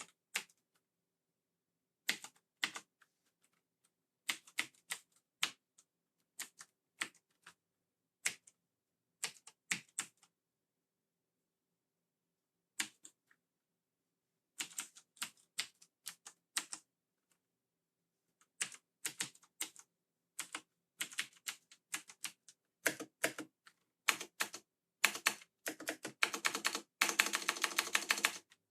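Keys of a mechanical keyboard with Cherry MX Blue switches being pressed to test them, clicking. The presses come singly and in small groups with pauses at first, then grow quicker into near-continuous typing towards the end.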